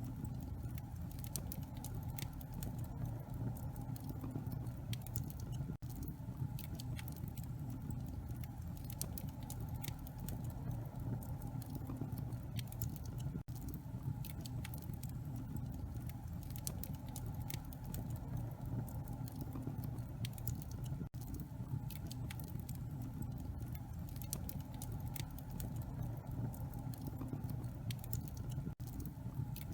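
Wood fire crackling in a fireplace: irregular sharp pops and crackles over a steady low rumble, with a brief dropout about every seven and a half seconds.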